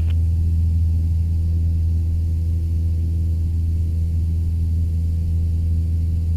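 Cessna 172's single piston engine and propeller droning steadily at climb power, heard from inside the cabin.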